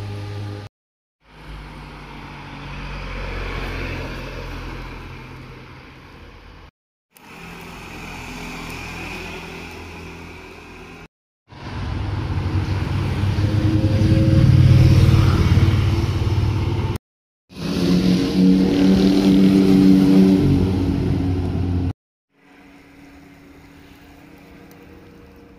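Motorcycles going by one after another, engines running and revving as each passes. The sound comes in about six separate stretches of a few seconds each, every one cut off abruptly, loudest in the middle third.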